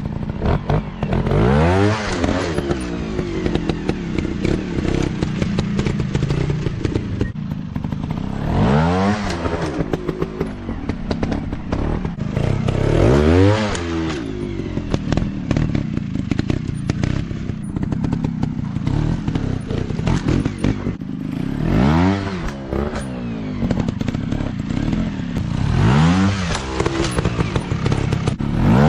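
Dirt bike engines running with the throttle opened and closed, the revs rising and falling about five times.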